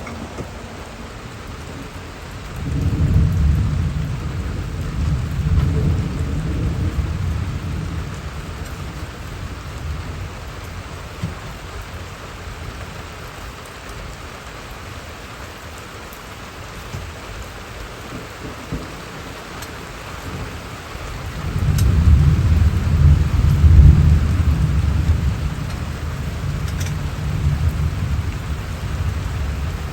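Steady rain falling, with two long rolls of thunder: one about three seconds in that rumbles for several seconds, and a louder one about twenty-two seconds in that slowly fades.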